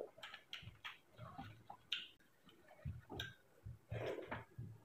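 Faint eating sounds: chewing, with small wet mouth clicks and lip smacks coming at irregular moments as a mouthful of rice and dal, eaten by hand, is worked.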